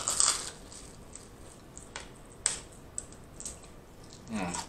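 Crunching of a crisp fried chicken wing being bitten and chewed close to the microphone: scattered sharp crackles of breading, the loudest at the first bite and again about two and a half seconds in.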